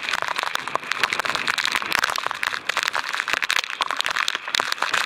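Heavy rain pelting the camera and its microphone: a dense, fast crackle of drop hits over a steady rain hiss.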